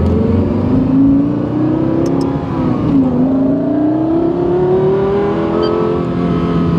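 Lexus LFA's 4.8-litre V10 heard from inside the cabin as the car accelerates. The engine pitch climbs steadily, dips briefly about three seconds in, climbs again, then drops near the end.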